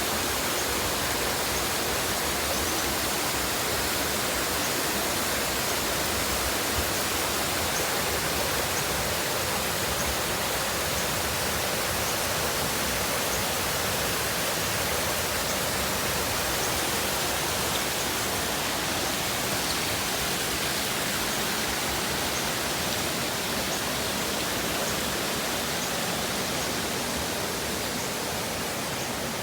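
A waterfall pouring steadily: an even, unbroken wash of falling-water noise.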